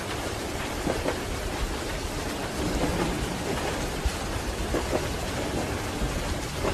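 Steady rain on a train window over the low rumble of a moving passenger train, with a couple of faint double clacks of the wheels crossing rail joints.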